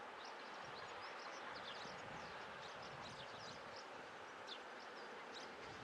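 Small birds chirping with many short, quick downward-sliding calls over a steady outdoor hiss. Underneath is a faint low rumble from the distant class 52 steam locomotive approaching.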